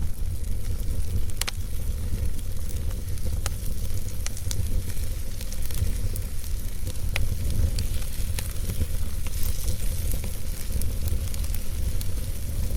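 Logs burning in a fireplace: a steady low rumble and hiss of the flames, with sharp wood crackles and pops every second or so, the clearest about a second and a half in and again about seven seconds in.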